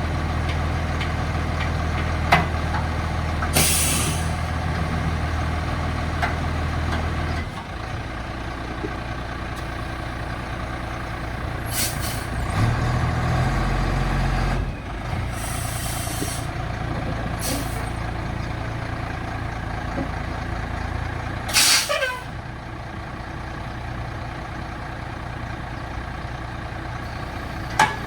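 International 4900 dump truck's diesel engine idling, its speed briefly raised about halfway. Several short hisses of air from the truck's air brake system cut in over the engine, the loudest near the end.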